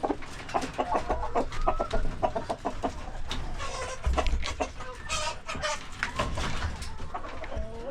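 A flock of chickens clucking: many short calls overlapping.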